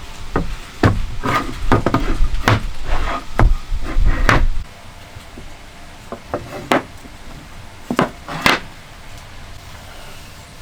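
Sharp knocks and taps on wood from hand woodworking, coming quickly one after another for the first four and a half seconds. After that come a few single knocks.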